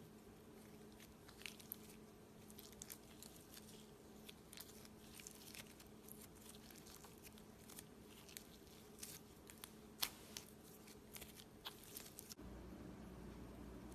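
Slime being squeezed and pressed by hand, giving faint, scattered crackles and pops with one sharper pop about ten seconds in. Near the end the crackling stops abruptly and a steady low hum takes over.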